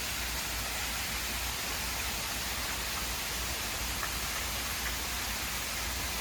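Steady rush of water falling over a waterfall, an even hiss without breaks.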